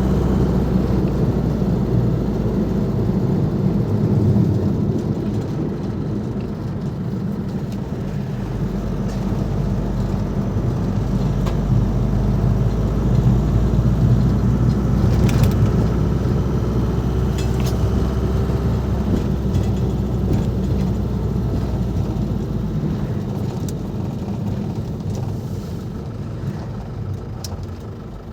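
Ford Transit Mk5's 2.5-litre diesel engine running under way, a steady low drone with road noise. It dies down over the last few seconds as the van eases off.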